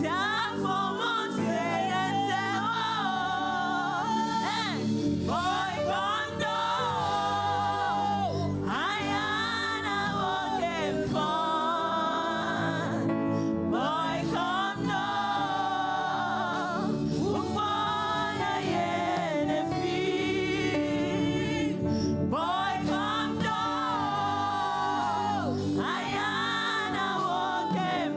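Gospel praise singing: voices singing a song in phrases of a few seconds each over steady instrumental backing.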